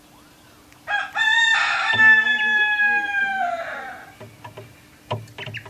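A rooster crowing once: one long call that starts about a second in, holds for nearly three seconds and falls in pitch as it fades. A few light clicks follow near the end.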